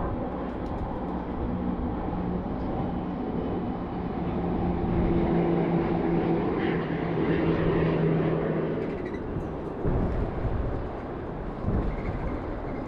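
Street traffic: a motor vehicle's engine hum swells and passes, loudest in the middle, over a steady traffic rumble. A couple of low thuds follow near the end.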